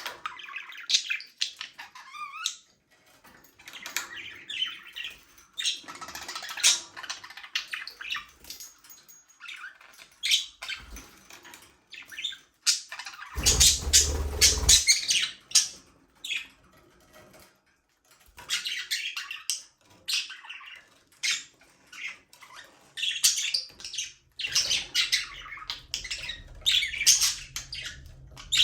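A flock of budgerigars chirping and chattering in quick overlapping bursts with short pauses between them. About halfway through there is a louder burst with a low rumble under it.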